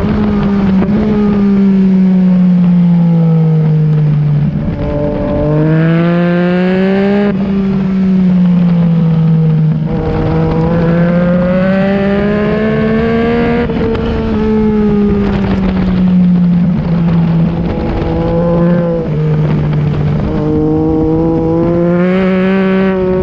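Yamaha MT-09's 890cc inline-three with an Akrapovic exhaust, at speed on a race track: the engine note climbs and drops repeatedly as the rider shifts and brakes, with wind rushing past the onboard microphone.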